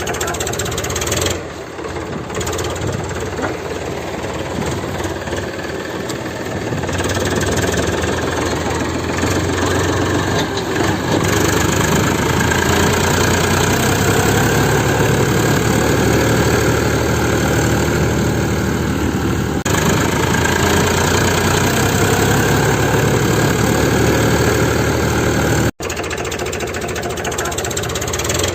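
Mini tractor's motor running steadily under load, growing louder about seven seconds in, with a brief cut near the end.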